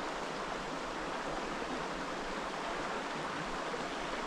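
Mountain stream water running steadily, a constant rushing hiss.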